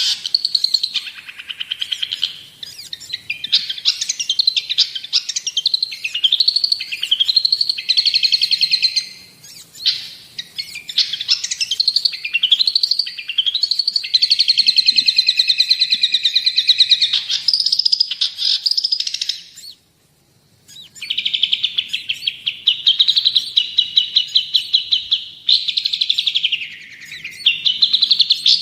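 Long-tailed shrike (cendet) in full song: a fast, varied run of chattering repeated notes and quick rising and falling glides, with a brief pause about twenty seconds in.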